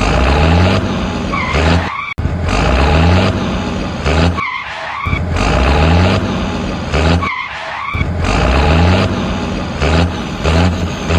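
Vehicle engine revving with tyre skidding and squealing. The same pattern of about three seconds repeats about four times, with short breaks between.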